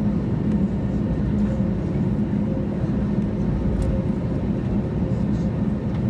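Airbus A321neoLR cabin noise after landing, while taxiing: a steady low rumble from the engines and airframe with a steady low hum.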